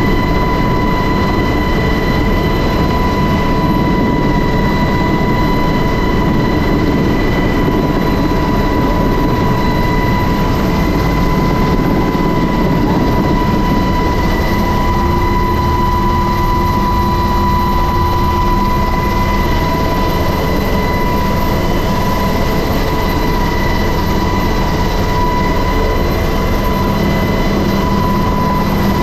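Helicopter running close by: a loud, steady engine and rotor noise with a high, steady whine on top.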